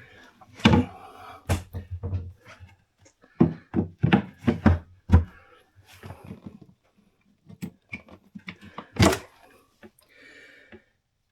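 Irregular hollow thumps and knocks in a sailboat cabin, with a quick cluster of four or five knocks near the middle and another loud thump near the end, the sound of wooden floor panels and fittings being handled.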